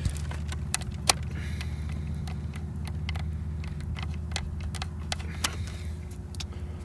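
Steady low mechanical hum with scattered light clicks and taps.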